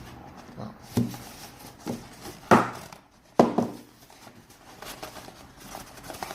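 Handling noise from the speaker and its packaging being turned over by hand: a few knocks and light rustling, with two louder knocks about two and a half and three and a half seconds in.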